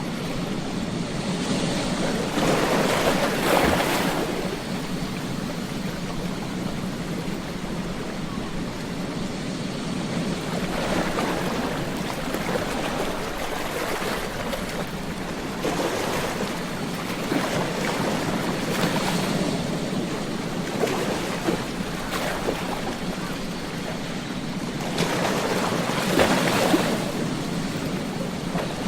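Ocean waves washing onto a beach in slow, repeated surges, loudest about three seconds in and again near the end.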